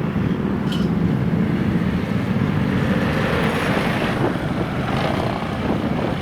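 Old motorcycle engines running loud and unsteady, with a rev that swells about three seconds in.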